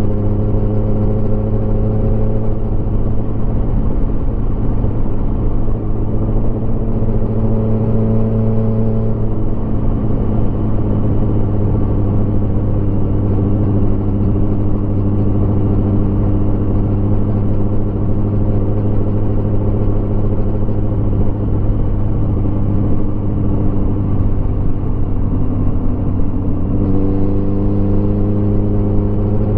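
Motorcycle engine running steadily while riding along. The engine note changes about nine seconds in and shifts again near the end.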